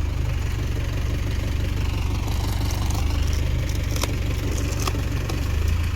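Tractor diesel engine running steadily at low revs, with two faint clicks about four and five seconds in.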